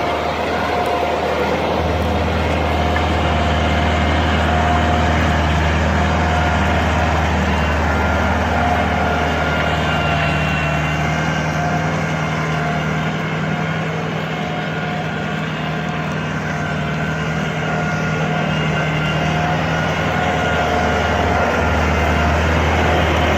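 Mini tractor engine running steadily, easing off a little for a few seconds around the middle before picking up again.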